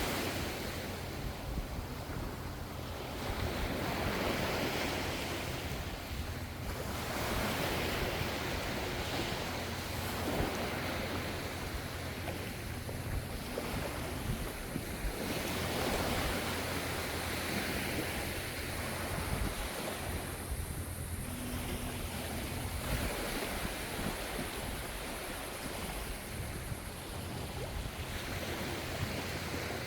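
Gentle ocean waves breaking and washing up, swelling and easing every few seconds over a steady low rumble.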